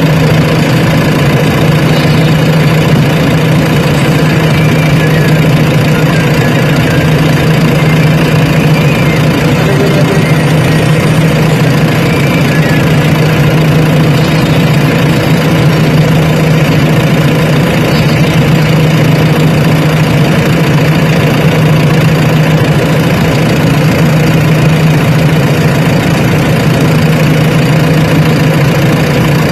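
Heavy diesel engine running steadily at an idle, with no change in engine speed.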